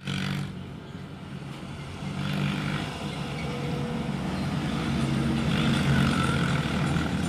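A motor vehicle's engine running steadily, growing gradually louder through the second half.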